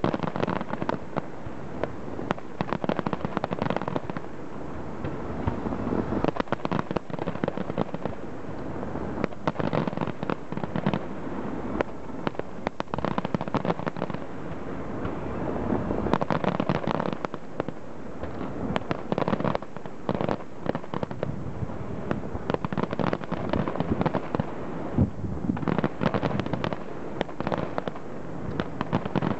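Fireworks display: a dense, unbroken run of aerial shell bursts and crackles, the bangs overlapping one another.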